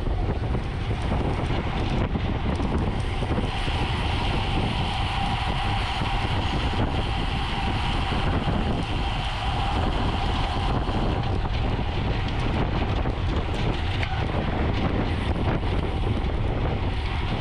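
Wind rushing over the microphone of a camera riding along in a bicycle road race, a steady low buffeting, with a faint steady whine over it.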